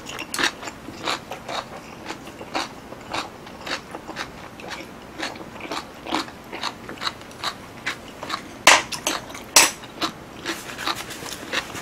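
A person chewing a full mouthful of food close to the microphone, with moist crunching about twice a second. Two sharper clacks come about nine seconds in.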